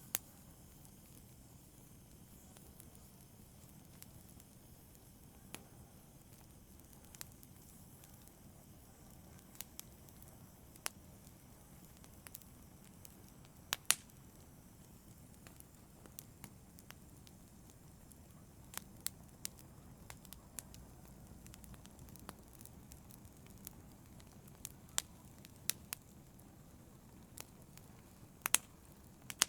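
Wood fire burning in a fireplace: a low steady hiss of flame under irregular sharp crackles and pops, scattered a few seconds apart and bunching into quick clusters now and then.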